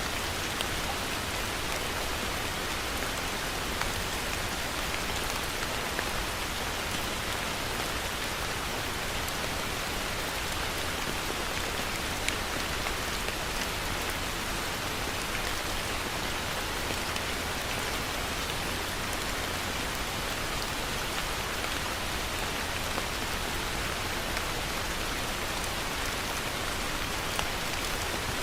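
Heavy rain falling steadily, a dense even hiss of rain with many small drop impacts on surfaces.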